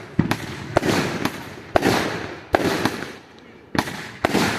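Fireworks going off: about six sharp bangs in a little over four seconds, each trailing off before the next.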